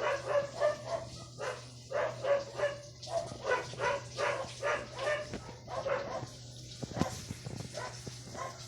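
A small puppy barking in a rapid run of short, high yaps, about three a second, with a brief lull near the end.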